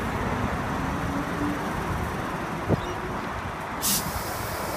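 Tangara electric multiple-unit train pulling out of the platform: a steady rumble with faint motor tones. There is a sharp click a little past halfway and a brief burst of hiss near the end.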